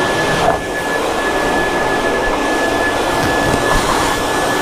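Self-serve car wash air-dryer blower running, a loud steady rush of air with a thin high whine held throughout. The air is blowing unheated.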